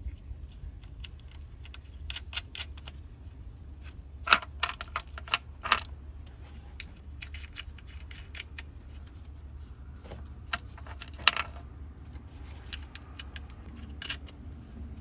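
Scattered light metallic clicks and clinks of a ratchet and 10 mm socket as an ignition coil nut is run back on, in irregular groups with the sharpest clicks about four to six seconds in and again near eleven seconds.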